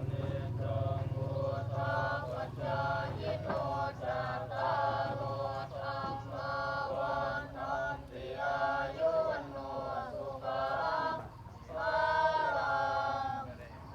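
Buddhist monks chanting a Pali blessing together, in phrases on a few held pitches, ending shortly before the end.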